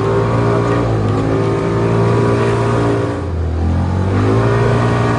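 Polaris Ranger 570 EFI UTV's single-cylinder engine revving hard under full throttle. Its pitch drops briefly about three seconds in, then climbs again.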